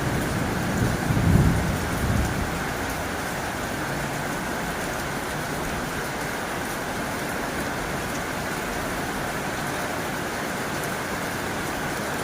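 Heavy rain drumming steadily on a tin roof, a dense even hiss of drops. A low rumble of thunder fades out about two seconds in.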